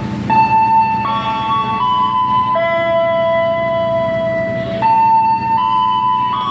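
A station public-address tune of long, held electronic notes that step up and down in pitch, with one long lower note in the middle, over a steady low rumble.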